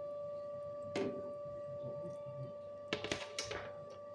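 A cloth wiping and handling the fridge's shelves: a few short scrapes and knocks, one about a second in and a cluster around three seconds in, over a steady high-pitched hum.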